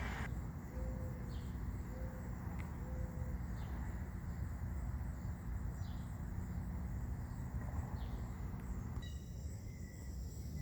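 Outdoor summer-morning ambience: a steady faint insect hum with a few soft, scattered bird calls over a low rumble.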